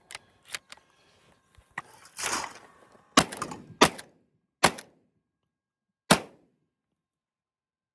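Benelli M2 20-gauge semi-automatic shotgun fired four times in quick succession, the shots coming over about three seconds with the last after a slightly longer gap; the action cycles every shell without a jam. A few faint handling clicks and a brief rushing noise come before the shots.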